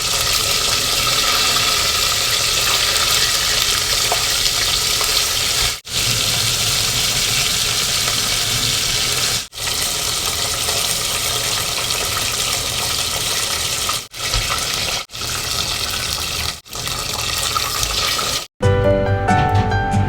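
Chicken drumsticks deep-frying in hot oil for the second fry that crisps them: a steady, loud sizzle, cut short by several sudden breaks. Music starts near the end.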